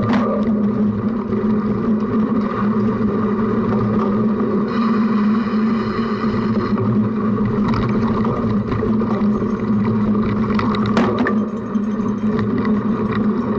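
Cyclocross bike being ridden over a rough course: a steady rumble and rattle with scattered sharp knocks from the bumps. Midway, a buzzing tone with several pitches lasts for about two seconds.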